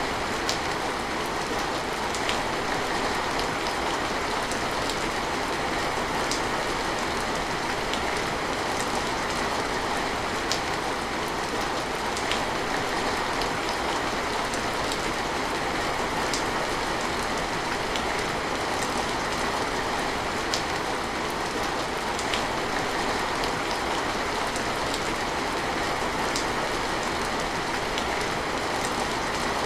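Steady rain falling, with scattered sharper ticks of single drops striking a surface.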